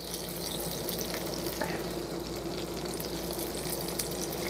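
Chicken tenders frying in hot oil in a 12-inch Lodge cast iron skillet, a steady sizzle, with a few faint clicks of metal tongs as the pieces are lifted out.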